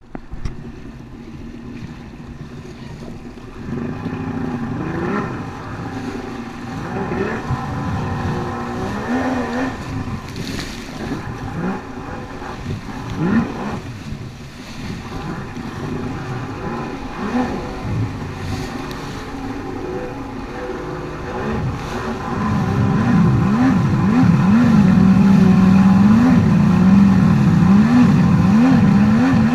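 Yamaha Waveblaster 1200 personal watercraft engine revving up and down as it rides through surf, the pitch rising and falling again and again. From about twenty-two seconds in it gets louder, with quick, repeated rev swings.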